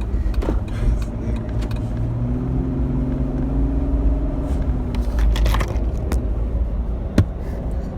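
Low road rumble and engine hum inside the cabin of a moving vehicle. A steady engine tone stands out between about two and five seconds in, and there is a single sharp click near the end.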